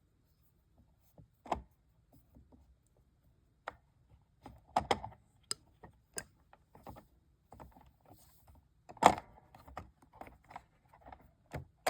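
Irregular clicks, taps and knocks of hard plastic being handled as the housing of an Ocean Wonders toy aquarium is opened up, the loudest knock about nine seconds in.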